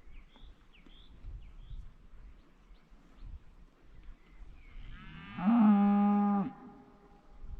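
A cow mooing once, a single call of about a second and a half that rises in pitch at the start and then holds steady.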